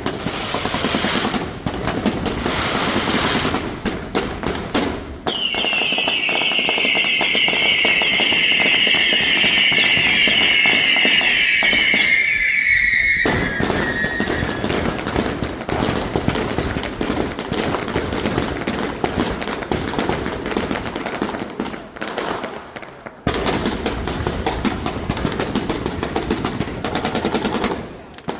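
Fireworks going off in rapid, continuous bangs and crackles, like machine-gun fire. About 5 seconds in, a shrill whistle rises over the crackling and holds for about nine seconds, slowly falling in pitch.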